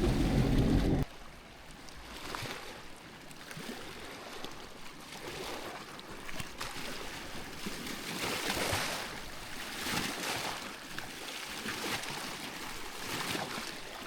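Lake water lapping softly, in gentle washes that rise and fall every second or two. About a second in, a louder steady hum with several tones cuts off abruptly.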